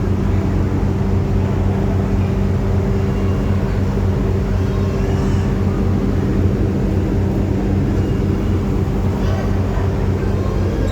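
Car ferry's engines droning steadily, a low unchanging hum with a rumble beneath it.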